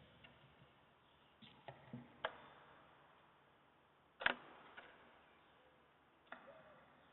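A bird's beak pecking at watermelon, heard as a few irregular sharp taps and clicks. The loudest tap comes about four seconds in.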